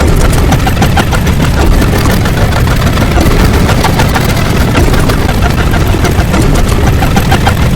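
A loud, steady, rumbling noise with a dense crackle of rapid clicks and no clear tone.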